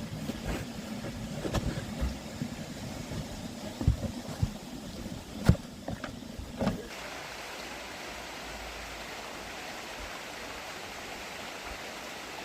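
Low rumbling handling noise with a few sharp knocks, then a sudden change about seven seconds in to a steady rushing of flowing river water.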